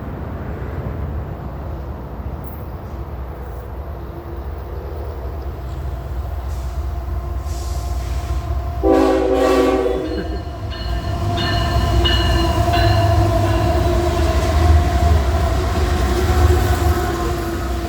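Union Pacific diesel locomotive approaching at the head of a freight train, its engine rumble growing steadily louder. About nine seconds in the air horn sounds: one loud, short blast, then a longer, quieter held note.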